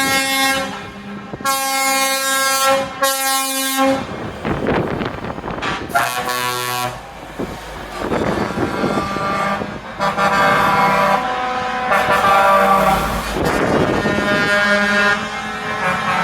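Trucks in a convoy sounding their air horns: a string of long, steady horn blasts, two back to back a couple of seconds in and more near the end, with truck engine and road noise between them.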